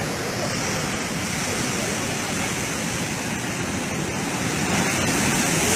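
Heavy ocean surf: a steady rush of breaking waves, growing louder near the end.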